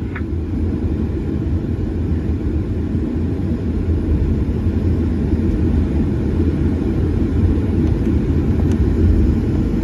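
Steady low rumble of airliner jet engines.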